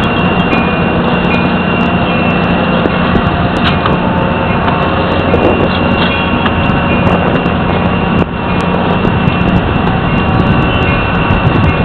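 A train running past a trackside railcam microphone: a loud, steady rumble with a constant low drone and a thin high whine, dipping briefly about eight seconds in.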